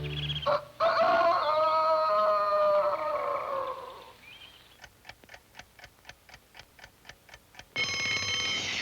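A music cue fades out. A clock then ticks at about four ticks a second, and near the end an alarm clock bell suddenly rings loudly, signalling wake-up time.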